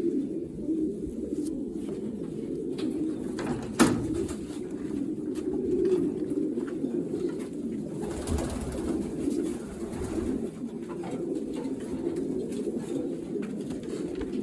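Many racing pigeons cooing together in a loft, a continuous low murmur. A single sharp click about four seconds in, and a short rustle a little past the middle.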